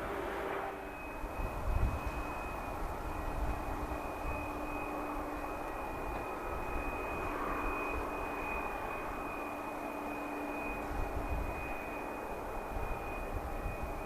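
Jet airliner's engines running with a steady high-pitched whine over a broad rush of engine noise.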